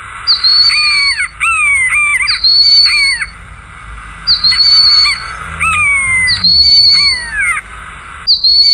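Birds calling: high, steady whistled notes repeated every second or two, alternating with loud falling whistles.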